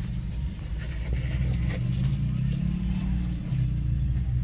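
Vehicle engine running at low, steady revs, as when idling.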